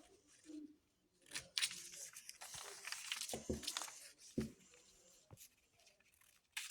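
Sheet of paper being handled and folded: a run of crisp rustles and creasing scrapes, quieter for a while, then a sharp crinkle at the end.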